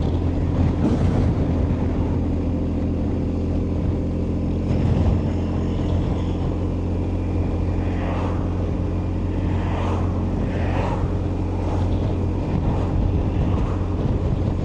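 BMW R1250GS Adventure's boxer-twin engine running steadily under way at cruising speed, a constant low drone with road noise.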